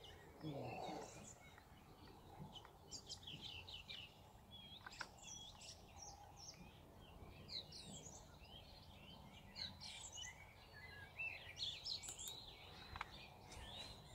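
Faint background birdsong: many small birds chirping and twittering on and off, with little else.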